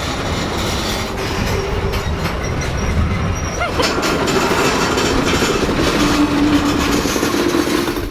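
Train on the tracks, a loud steady rumble with wheel clatter, joined in the second half by steady squealing tones from the wheels.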